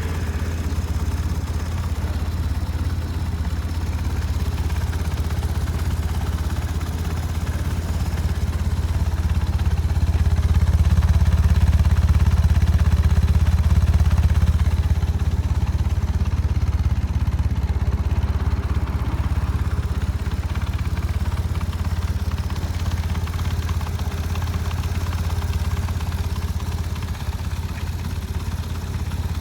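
BMW R1150RS boxer-twin engine idling through an aftermarket Sasaki Sports muffler, a steady deep exhaust note. It swells a little around the middle, then settles back to idle.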